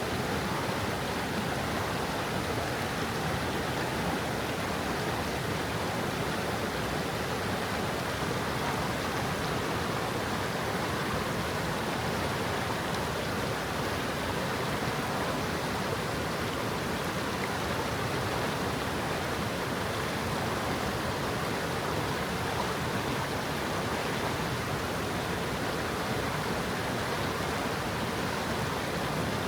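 Stream water flowing and babbling over stones, a steady, even rush.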